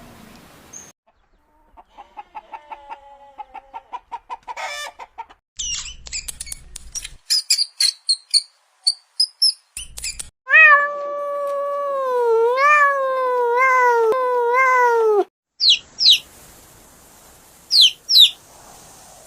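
A run of different animal calls, one after another: a fast series of short calls, high twittering chirps, then the loudest part, a long wavering cry with several upward swoops lasting about five seconds, followed by sharp falling chirps.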